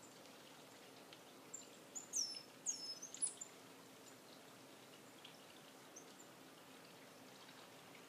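Small songbirds chirping: a quick cluster of high, down-slurred chirps about two to three seconds in, then a few fainter single chirps.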